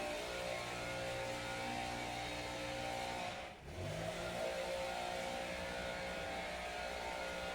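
A steady motor hum made of several even tones. About three and a half seconds in it drops away briefly, then returns with a short rising whine.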